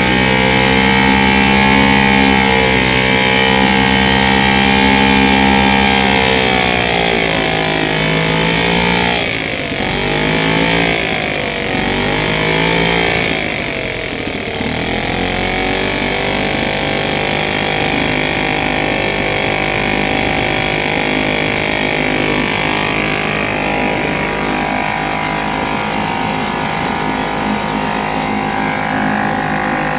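British Seagull Forty Plus single-cylinder two-stroke outboard motor running smoothly. About a third of the way in its speed drops and picks up again three times, then it settles into steady running at a lower speed.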